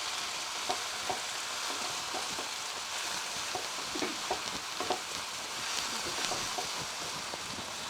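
Hakka noodles sizzling in a hot pan as they are stirred and mixed, with utensils clicking against the pan now and then.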